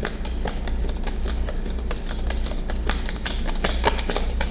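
Tarot deck being shuffled by hand: a quick, irregular run of card clicks and flicks, several a second, over a low steady hum.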